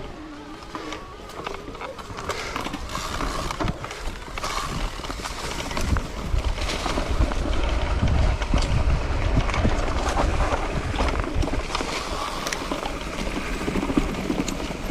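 Mountain bike riding fast along a dirt singletrack: tyre noise with frequent rattles and knocks from the bike, and a low wind rumble on the microphone that grows louder about six seconds in.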